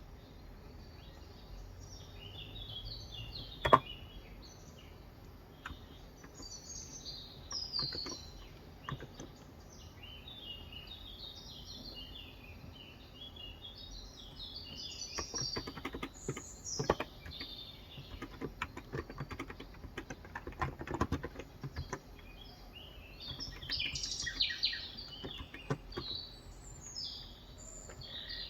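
Small birds chirping and twittering throughout, mixed with scattered keystrokes on a Cox Endeavor electrocapacitive (Topre-style) keyboard with 35 g switches. The keystrokes come in runs, busiest about halfway through. One sharp click about four seconds in is louder than everything else.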